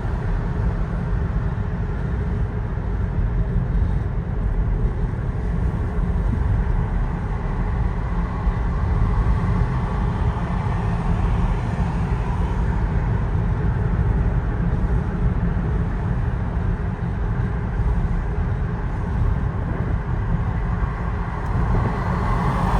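Steady road and engine noise of a car driving, heard from inside the cabin: an even low rumble with no breaks.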